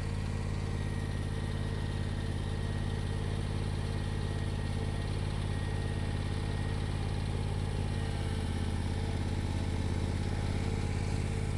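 Bad Boy Elite zero-turn lawnmower's engine running at a steady speed while the mower is driven, getting a little louder late on.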